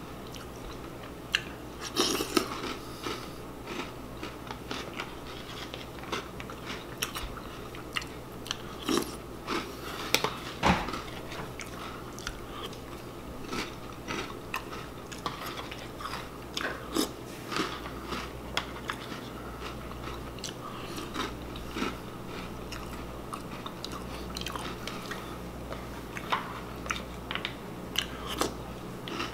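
A person chewing crunchy breakfast cereal, with irregular sharp crunches throughout.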